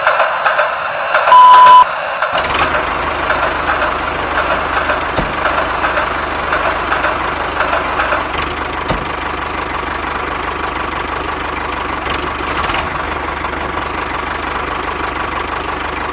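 A loud short beep, then about two seconds in a steady engine-like running sound with a low rumble starts and carries on evenly.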